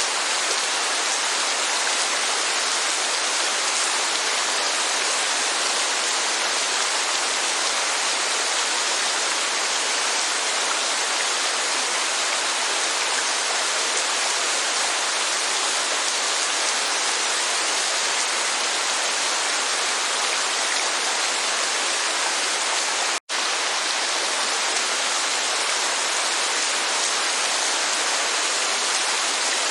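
Steady rushing hiss of rain and falling water, even and unchanging. It cuts out for an instant about three-quarters of the way through.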